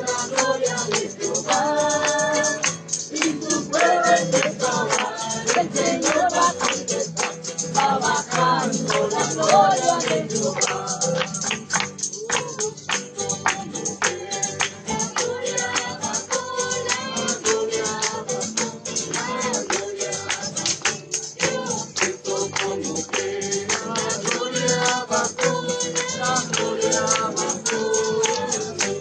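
Group of people singing a praise hymn together, with a tambourine jingling in a steady, fast rhythm.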